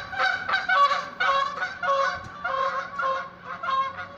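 Geese honking: a dense run of short, repeated calls from several birds, overlapping one another.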